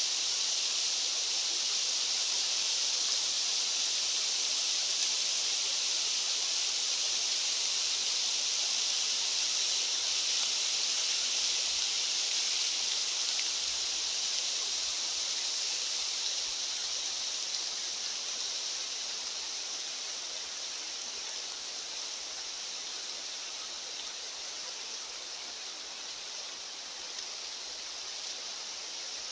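A steady, even high-pitched rushing hiss with no distinct events, easing off slightly in the second half.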